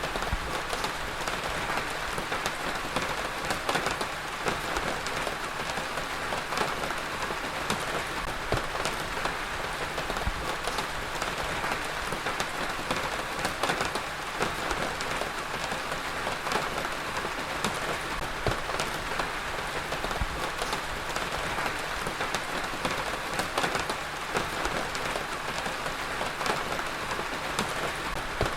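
Heavy rain falling steadily on a surface: a dense, even hiss with many individual drops ticking through it.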